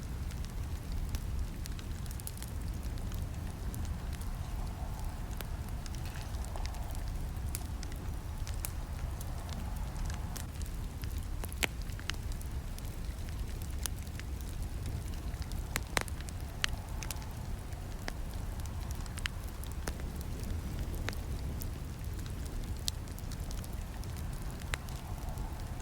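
Wood campfire burning: a steady low rumble of flames with scattered sharp crackles and snaps, the loudest snap about sixteen seconds in.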